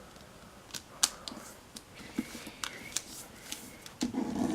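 Foil origami paper being folded and creased by hand: scattered sharp crackles and clicks with faint crinkling between them, then a louder, lower rustle near the end.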